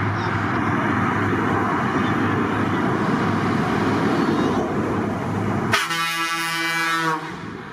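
Heavy trucks running past with a steady low engine rumble, then about six seconds in a truck's air horn sounds one steady blast lasting just over a second.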